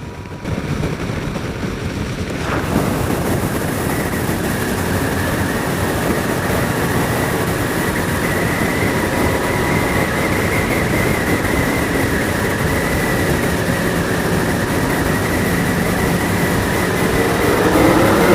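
Rushing wind on a motorcycle rider's helmet microphone, with the Yamaha FJR1300's engine running steadily underneath. It grows louder a couple of seconds in, and near the end the engine note rises.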